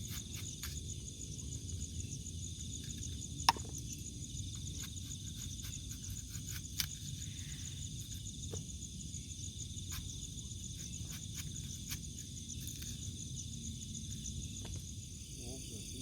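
Night chorus of crickets trilling steadily over a low rumble, broken by a few sharp clicks, the loudest about three and a half seconds in.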